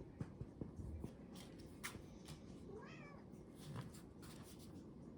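Domestic cat giving one short meow about three seconds in, with light taps and clicks around it.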